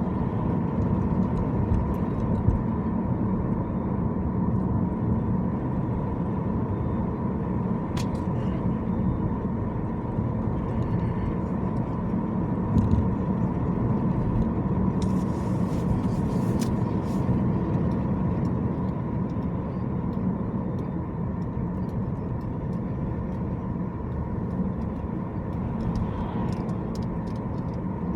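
Car driving on city streets: steady engine and road-noise rumble, with a few light clicks and a brief hiss about halfway through.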